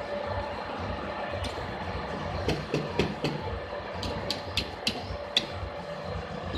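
Drill press running with a steady hum and low pulsing rumble, with a cluster of light sharp clicks in the middle.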